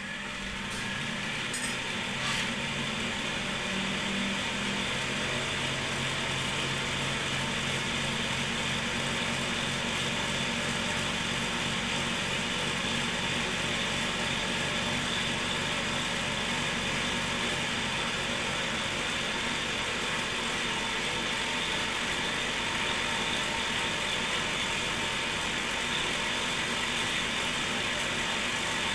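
Cotton candy machine driven by a DC motor running steadily, its spinning head giving a continuous mechanical whir with a low hum; it builds up over the first few seconds and then holds level.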